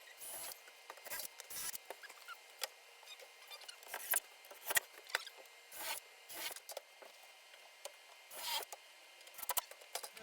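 Irregular light scraping, rubbing and soft knocks with short gaps between them: pieces of wood being handled and set in place.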